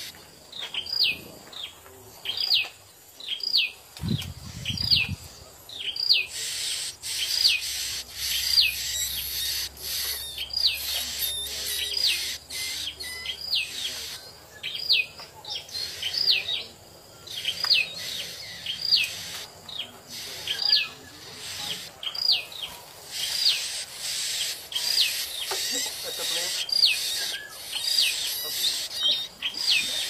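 A bird calling over and over at a nest of chicks being fed: a high, clear note that falls and hooks, repeated a little more than once a second over a steady high hiss. A brief low rumble about four seconds in.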